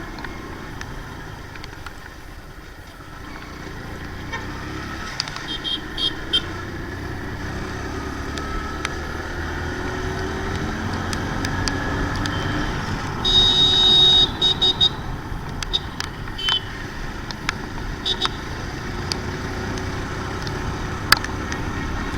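Hero Splendor motorcycle's small single-cylinder engine running under way with road noise, growing louder as it picks up speed over the first half. Vehicle horns toot several times, the loudest a long honk about thirteen seconds in.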